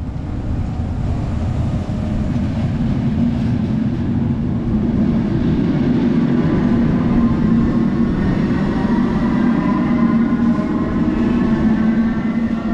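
SNCB electric passenger train moving past close by, a steady loud rumble of wheels on rails. Through the second half a whine rises slowly in pitch as the train picks up speed.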